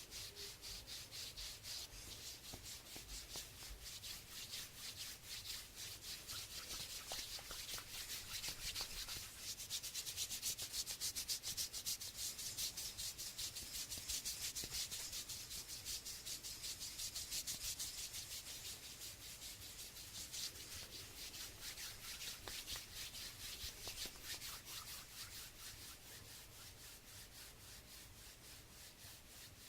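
Hands rubbing in quick, even back-and-forth strokes, a dry swishing that grows louder in the middle and fades toward the end.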